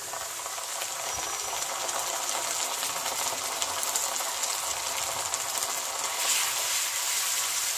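Fried onions sizzling in hot oil in a nonstick pan, a steady hiss with fine crackling that grows louder as ginger-garlic paste goes in and is stirred with a wooden spatula.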